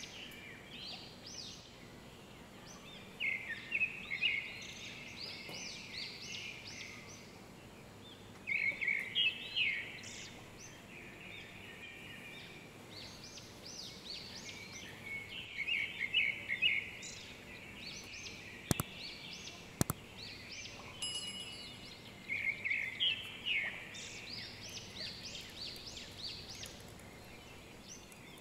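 Small birds chirping in repeated, irregular bursts of quick high notes. Two sharp clicks come about a second apart roughly two-thirds of the way through.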